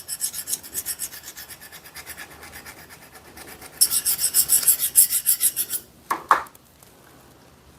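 A hand scraper rasping back and forth over an old screwdriver in quick, short strokes, about six a second, scraping off built-up gunk. The strokes grow louder for about two seconds in the middle, then stop; two brief knocks follow.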